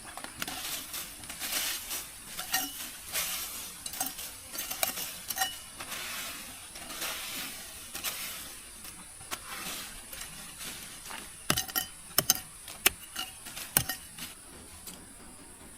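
Scraping and clinking of cookware and utensils, with a short run of sharp knocks near the end.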